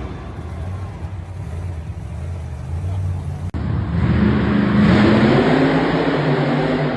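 Monster truck engine running and revving, with a hard cut about halfway through to a louder stretch where the engine pitch rises and falls.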